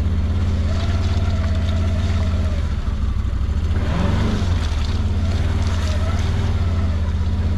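Side-by-side UTV's engine running steadily under way, a strong low drone with a fainter steady whine above it. The pitch dips and rises briefly about four seconds in.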